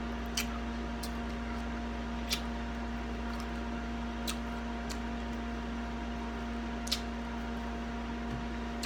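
Steady electrical hum of a fan or appliance in a small room, with about four short sharp clicks scattered through it, the loudest about seven seconds in.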